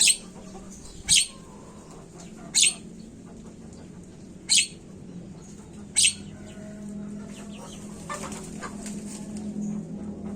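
Javan myna (jalak kebo) calling: five loud, sharp, high-pitched calls a second or two apart, then softer, varied chattering over a steady low hum.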